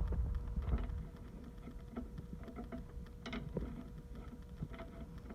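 Faint scattered metallic clicks and handling noises from reinstalling the axle nut on an ATV's rear axle, a little louder about three seconds in, over a faint steady hum.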